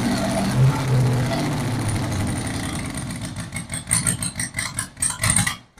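A 409 small-block Chevy dragster engine on methanol being turned over with a steady drone, then sputtering in a string of irregular sharp pops from about three seconds in as it tries to fire but won't catch. It was starved of fuel: the fuel pump's drive keyway had snapped.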